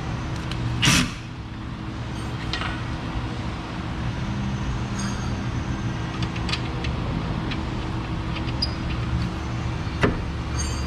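Metal clinks and knocks from hand work on a Jeep Wrangler's suspension as a new control arm is set into its mounts, over a steady shop hum. There is a louder, rushing burst about a second in and a sharp knock near the end.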